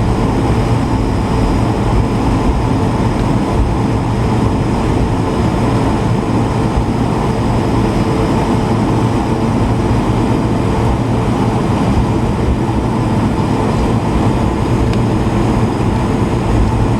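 Steady, loud roar of the Airbus A220-300's Pratt & Whitney PW1500G geared turbofan engines heard from inside the cabin, mixed with airflow noise and a few constant tones.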